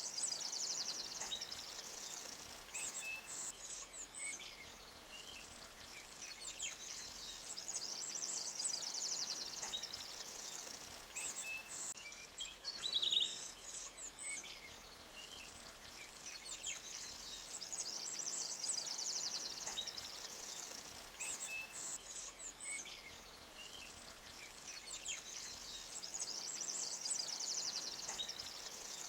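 Small birds chirping and trilling in high, rapid runs that rise and fall every several seconds, with one sharper call about halfway through, over a faint steady hiss of background noise.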